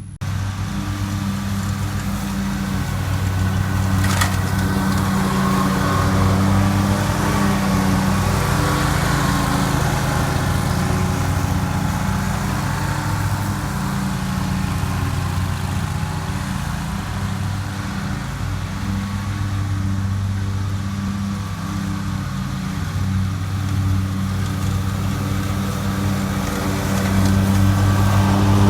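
Lawn mower engine running steadily while mowing, with a single sharp click about four seconds in and the engine a little louder near the end.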